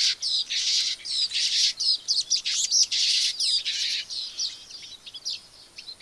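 Streaked weavers calling: a busy, overlapping chatter of quick chirps and squeaky notes, thick for about the first four seconds and then thinning to scattered chirps.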